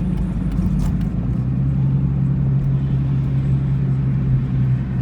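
Car engine running, heard from inside the moving car, with a steady low hum whose pitch drops about a second and a half in and then holds.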